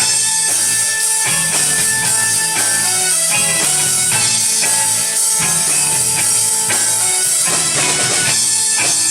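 Rock band playing an instrumental passage with drum kit, bass and electric guitar, no singing.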